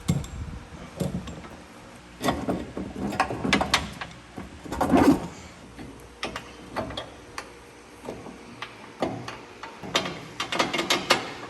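Hand tools working on a pickup's front suspension: irregular metallic clicks, clanks and knocks, in clusters, with the loudest knock about halfway through.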